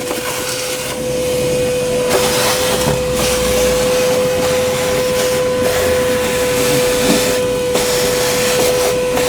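Wet/dry shop vacuum running steadily, a constant motor whine over the hiss of air and water being sucked up from the car's waterlogged floor.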